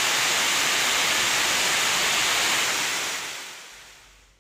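Heavy rain pouring down onto a flooded street: a steady hiss that fades away over the last second or so.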